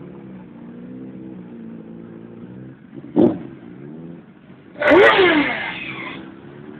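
Motorcycle engines running and revving, their pitch wavering up and down. A short loud surge comes a little after three seconds. The loudest, a hard rev, comes about five seconds in, its pitch falling away over a second or so.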